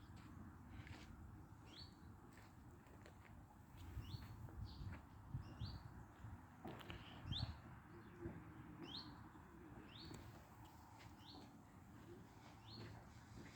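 Faint small songbird repeating short rising chirps, about one a second, over a low rumble that grows louder in the middle.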